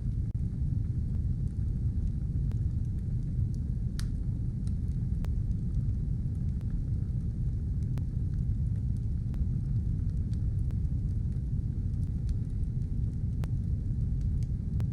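A fire burning: a steady low roar with sparse, sharp crackles and pops scattered through it, one louder pop about four seconds in.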